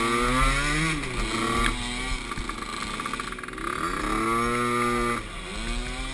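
Small youth ATV engines revving, their pitch climbing under throttle and falling off again. The first surge comes near the start and the second about four seconds in, easing off sharply about five seconds in.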